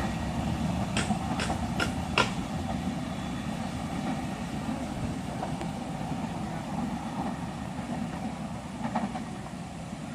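A train rumbling away, the low rumble slowly fading. A run of sharp clicks about 0.4 s apart comes in the first two seconds.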